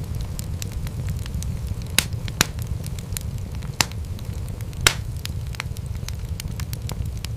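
Wood fire crackling over a steady low rumble, with many small snaps and a few louder pops around two and five seconds in.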